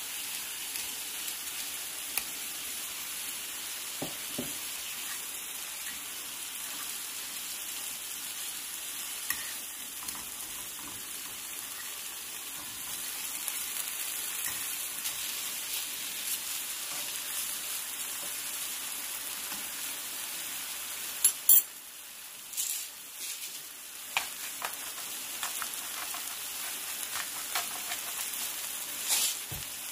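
Lion's mane mushroom slices sizzling steadily in a non-stick frying pan, with small crackles and a spatula scraping and tapping the pan now and then; two sharp clicks about two-thirds of the way through are the loudest sounds.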